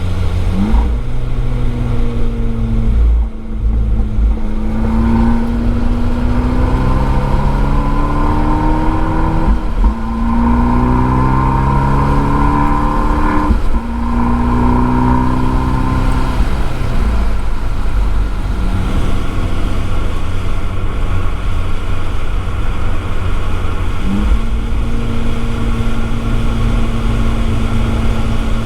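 Abarth 595 Esseesse's turbocharged four-cylinder, heard through its Akrapovič exhaust, accelerating hard through the gears. Its pitch climbs and drops back at upshifts about three, ten and fourteen seconds in. It then settles to a steadier, lower note, with a brief blip of revs near the end.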